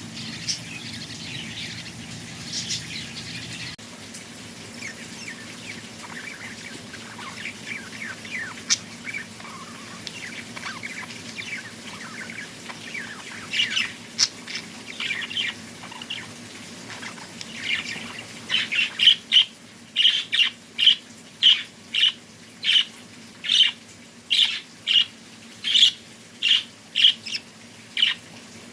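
Small birds chirping and twittering. About two-thirds of the way in, one bird starts a loud call repeated about twice a second.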